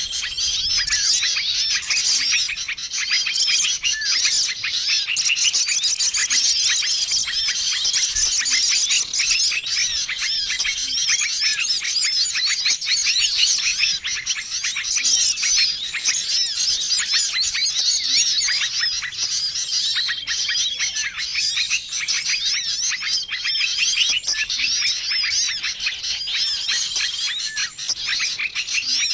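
Bird-lure recording: a dense, noisy chorus of many small songbirds chirping and twittering over one another without a pause, with a short steady whistle that comes back every few seconds.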